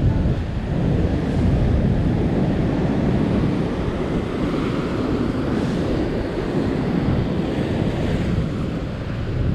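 Heavy surf breaking and washing on the beach, with wind buffeting the microphone as a steady low rumble; the wash of the surf swells up about halfway through.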